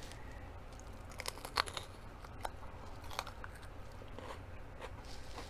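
Crisp crunching and chewing of a raw orange sweet pepper, with a few sharp crunches scattered through, the loudest about a second and a half in.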